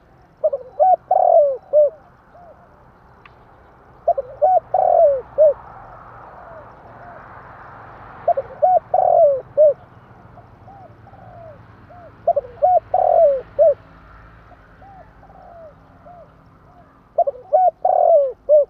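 Spotted dove cooing: five loud coo phrases about four seconds apart, each a quick run of a few arching notes, with fainter coos between them.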